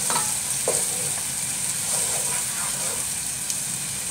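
Sliced onions and green chilli–ginger–garlic paste sizzling in hot oil in a non-stick pot, stirred with a wooden spoon. A steady frying hiss runs under a few light stirring sounds.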